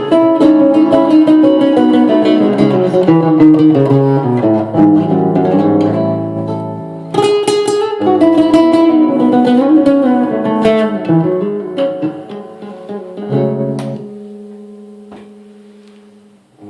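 Solo guitar improvising, picking melodic runs of single notes. A full chord is struck about seven seconds in and another about thirteen seconds in; the last one rings on and fades away near the end.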